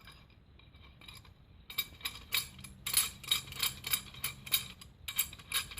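Metal tools being handled: a steel C-clamp being loosened and rattled, making repeated sharp clinks and clicks, about two or three a second, starting about a second and a half in.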